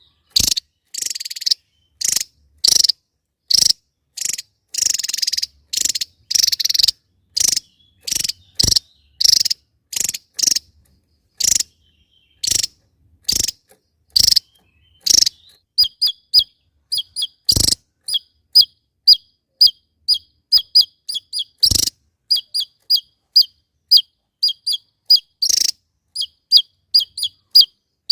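Javan tesia singing: a long run of short, sharp, high chips about two a second. About halfway through they turn into quicker, cleaner whistled notes, two to three a second.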